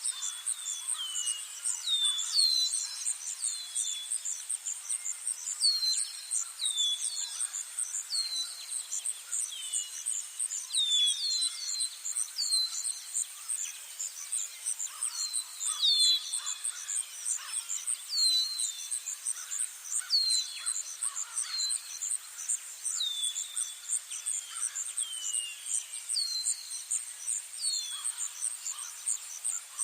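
Outdoor chorus: a steady, high insect trill that pulses rapidly, with a bird repeatedly giving short, downward-sliding chirps, one or two a second.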